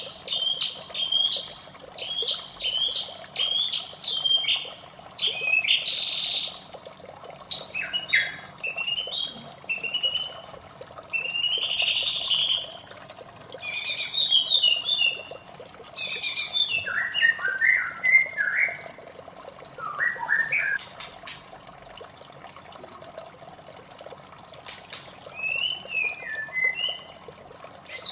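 White-rumped shama singing a varied series of short whistled phrases separated by brief pauses, over a steady background of running water.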